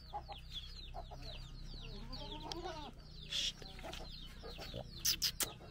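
Village chickens: chicks peeping continually in quick, high, falling notes, with a lower call about halfway through and a few sharp clicks near the end.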